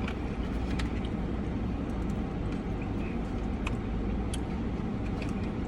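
Car engine idling: a steady low rumble, with a few faint clicks over it.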